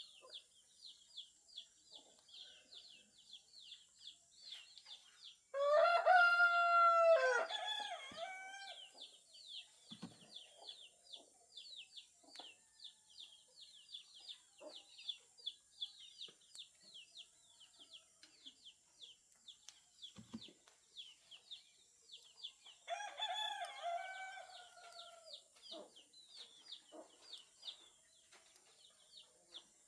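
Rooster crowing twice, about six seconds in and again some seventeen seconds later, each crow lasting about two and a half seconds. Underneath runs a fast, steady, high chirping.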